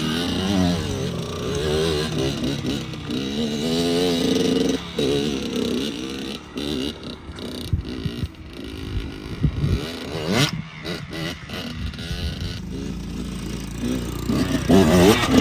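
Dirt bike engine being ridden on a trail, its pitch climbing and dropping again and again as the throttle is worked. A single sharp knock comes about ten seconds in.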